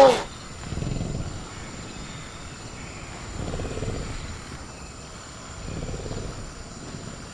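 Velociraptor creature sound effect: a shrill screech cuts off just at the start, followed by three low growls spaced a couple of seconds apart, over a steady high chirring of crickets.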